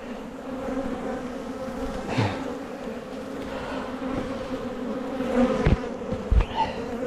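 Honeybees buzzing in a steady, dense hum around an opened hive. A few short low thumps sound about two seconds in and twice more near the end.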